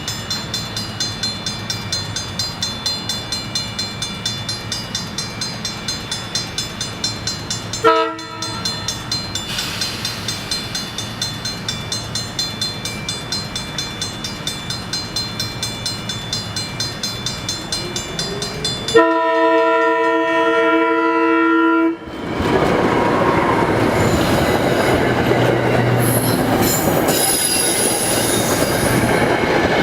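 Grade-crossing warning bell ringing about three times a second as a Budd M-2 electric multiple-unit train approaches. The train sounds a short horn blast about eight seconds in and a long, loud one of about three seconds some nineteen seconds in. It then passes the crossing, its wheels clattering over the rails with some high squealing.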